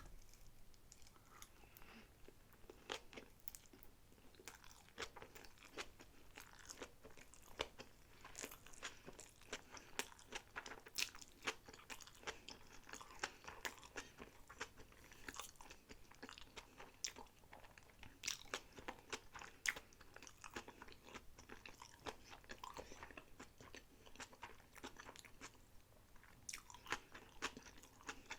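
Close-miked chewing of sushi rolls: a dense, irregular run of short crunchy and wet mouth clicks.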